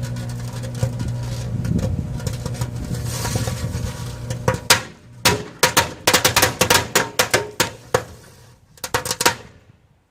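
Microwave oven humming while it runs, then from about four and a half seconds in a rapid, irregular string of sharp bangs: a pile of firecrackers going off inside it. The bangs thin out to a last few just before the end.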